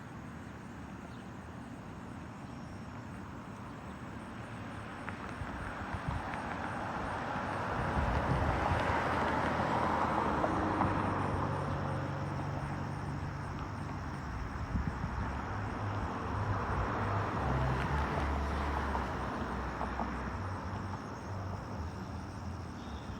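Outdoor field recording in which a road-traffic hiss swells and fades, loudest about ten seconds in and again near eighteen seconds, as vehicles pass, with low rumble under it.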